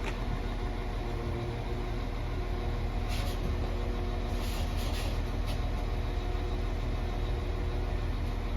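Diesel multiple unit's engines running steadily at the platform as the train gets ready to depart, with a few short hisses of air around the middle.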